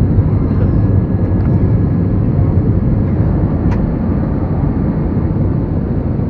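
Steady low cabin noise of an airliner in flight, engines and airflow heard from inside the passenger cabin, with one faint click a little before four seconds in.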